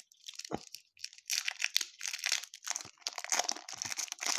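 Wax-paper wrapper of a baseball card pack crinkling and tearing as it is picked at by hand. A few sharp crackles in the first second, then steady crinkling.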